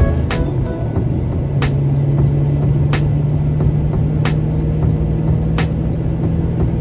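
Car engine running steadily with a low drone. A sharp click repeats evenly about every 1.3 seconds.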